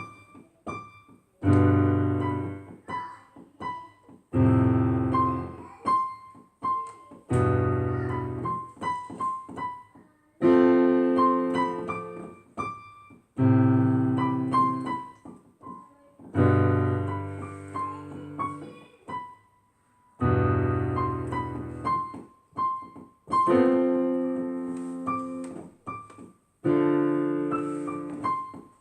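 Piano playing a slow, emotive piece. A low chord is struck about every three seconds and left to ring and fade, with single higher melody notes picked out in between.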